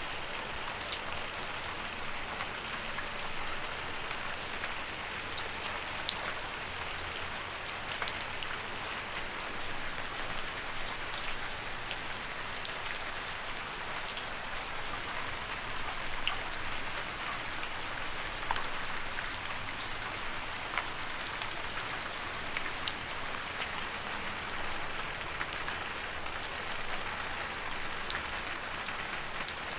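Steady rainfall with the patter of individual drops landing close by, sharp drop ticks scattered over an even hiss.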